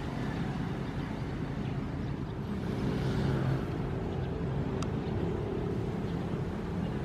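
Ocean surf: a steady low rumble of waves, with one wave swelling and washing in about three seconds in.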